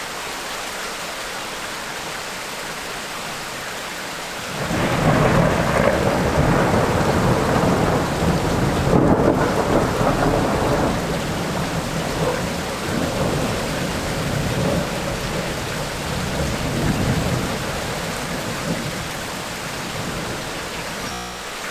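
Steady rain of a tropical rainstorm, with a long roll of thunder breaking in about four seconds in. The thunder is loudest for the next several seconds, then rumbles on in waves and fades away near the end.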